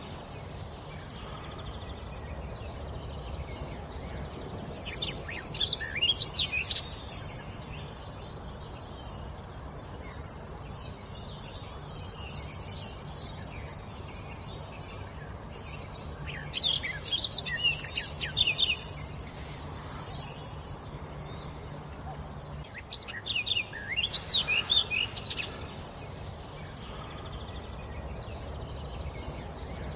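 A wild songbird singing in three bouts of quick, high, sweeping notes, each lasting two to three seconds, with pauses of several seconds between them, over a steady low background hum.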